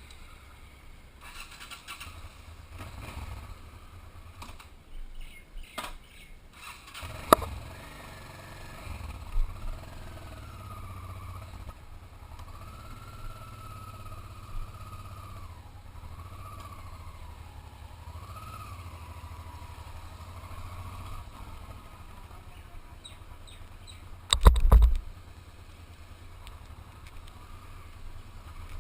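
Motorcycle engine running at low revs, a steady low rumble, with a few sharp knocks about seven seconds in and a loud short thump-like burst near the end. A faint wavering high tone rises and falls through the middle.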